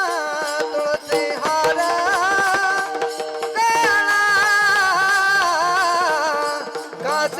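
Devotional bhajan music: a sung melody drawn out in long, ornamented held notes over hand-drum percussion.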